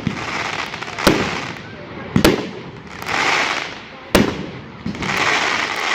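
Fireworks going off: three sharp bangs, about a second in, just past two seconds and just past four seconds, with swells of hissing and crackling from the shells between them.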